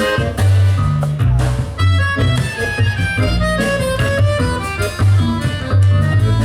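Live band music: a reedy lead melody moving in short stepped notes over a changing bass line and steady drum beats.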